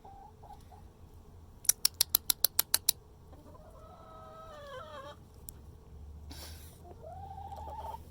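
Domestic hens calling: one drawn-out call in the middle and another rising call near the end. About two seconds in, a quick run of about nine sharp clicks, the loudest sound here.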